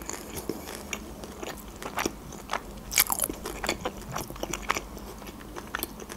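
Close-miked chewing of a homemade taco wrapped in thin lavash: an irregular run of short, moist mouth clicks and soft crunches, with a few louder ones about two and three seconds in.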